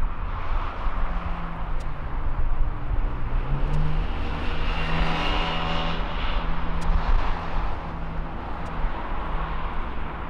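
Jet airliner's engines running as it passes: a steady rush with a high whine that is strongest about halfway through.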